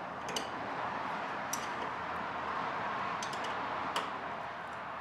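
A few sparse, sharp metallic clicks of a wrench tightening the nut on the starter's cable terminal, over a steady background hiss.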